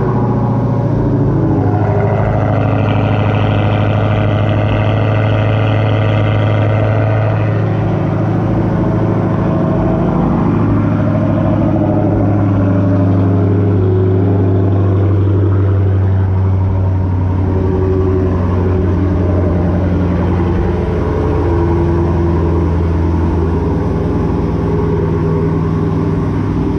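Dodge Challenger SRT Demon's supercharged 6.2-litre V8 idling just after a cold start. A high whine rides over the idle for the first several seconds and fades out about seven seconds in, then the engine settles into a steady idle.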